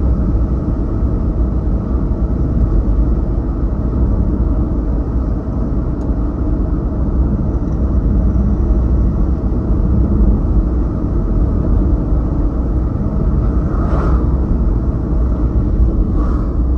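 Steady low road and engine noise of a car driving on a highway, heard from inside the cabin, with two brief faint sounds near the end.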